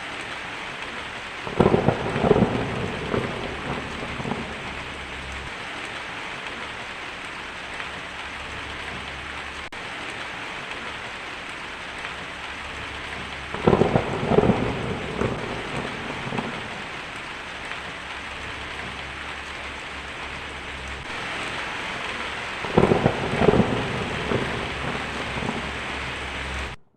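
Steady heavy rain with thunder breaking in three times, about every ten seconds. Each clap is a sudden sharp crack that rumbles away over a few seconds.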